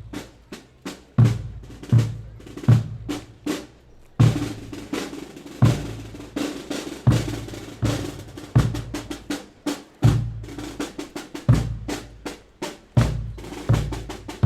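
Drums beating a steady rhythm: a heavy, deep-sounding stroke about every one and a half seconds, with lighter, sharper strokes between.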